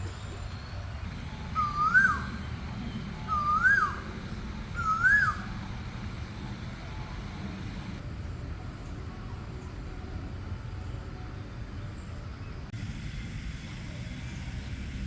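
Asian koel calling: three loud whistled notes, each swooping up in pitch, about a second and a half apart, over a steady low rumble.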